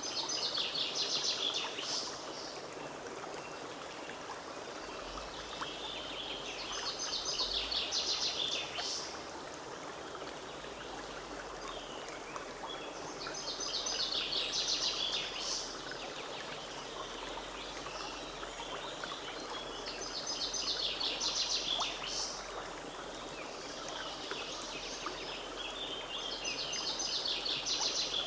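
Forest stream running steadily. Over it, a songbird repeats a short, rapid song of about two seconds roughly every six or seven seconds, five times.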